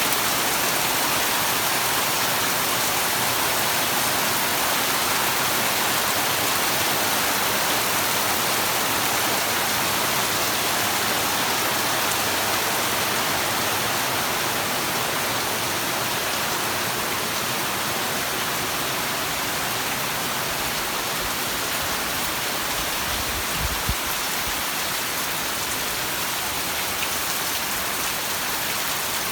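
Heavy downpour: a steady, even hiss of rain pouring down, a thunderstorm-type burst of rain, with one brief low thump about two-thirds of the way through.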